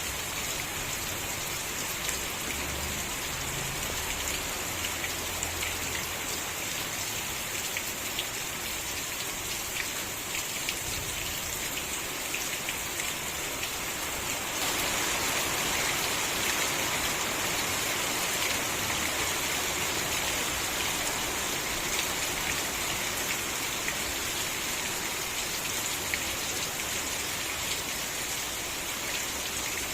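Steady rain falling, a dense hiss with many small drop ticks, growing heavier and louder about halfway through.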